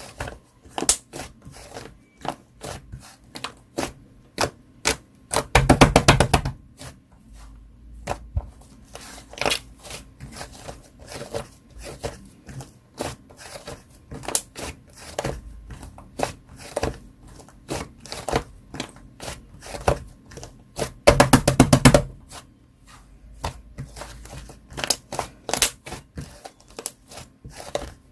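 Chewy clay slime being squished and stretched by hand, making a steady run of sticky clicks and pops. About six seconds in and again near the end there are dense bursts of rapid popping.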